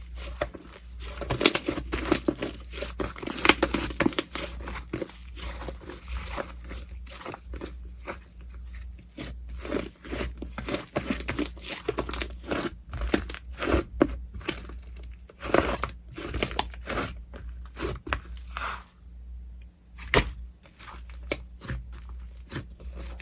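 Slime being squished, stretched and torn by hand, with irregular crackling, crunching and popping.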